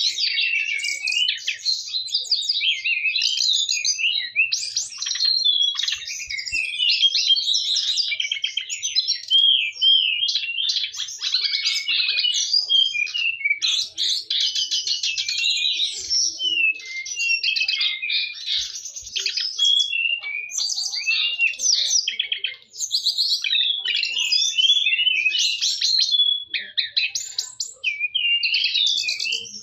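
Caged brown-chested jungle flycatcher (sikatan rimba dada coklat) singing hard: a continuous, rapid run of varied, high warbling and chirping phrases with barely a pause.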